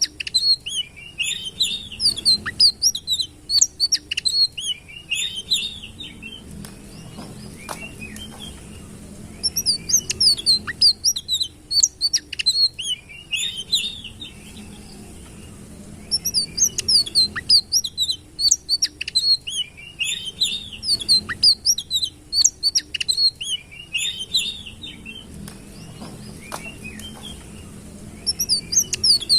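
Sitrun songbird singing rapid, high twittering phrases of quick slurred notes. The song comes in bouts several seconds long, broken by short pauses of two or three seconds.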